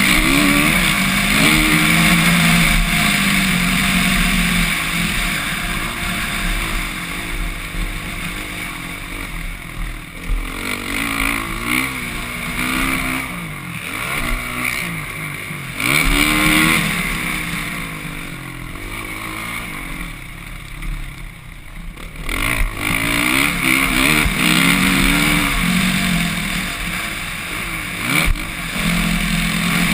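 Suzuki RM-Z450 motocross bike's single-cylinder four-stroke engine revving hard, its pitch climbing and dropping again and again as the throttle is opened and rolled off, with wind noise on the microphone. The engine eases off briefly a few times.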